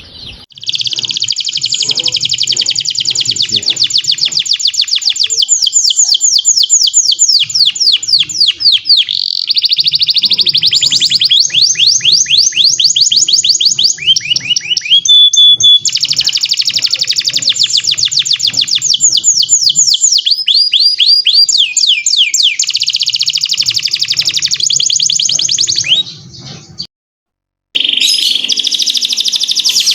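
Domestic canary in full song, a long run of very fast trills and rapid repeated notes with sweeping glides, breaking off for about a second near the end and then resuming.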